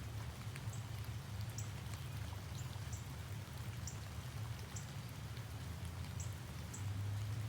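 Outdoor morning ambience: short, high-pitched chirps repeating about once or twice a second over a steady low rumble.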